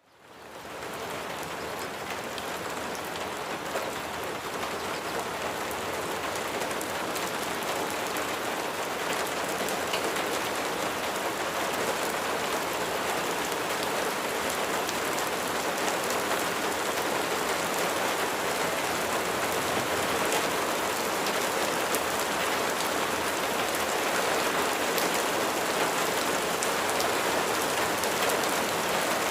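Steady rain falling, an even hiss of many drops, fading in from silence at the start and holding steady after.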